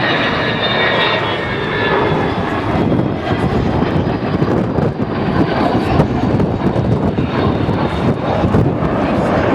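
Avro Vulcan jet bomber's four Olympus turbojets during a display pass: loud, steady jet noise with high whining tones that fade away over the first two or three seconds.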